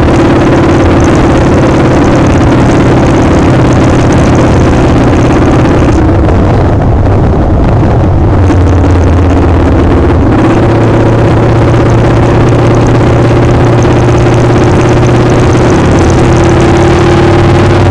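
Motorcycle engine running at a steady cruising speed under heavy wind noise on the microphone. From about six seconds in, the engine note drops and the wind eases for a few seconds, as when the bike slows, then both pick up again.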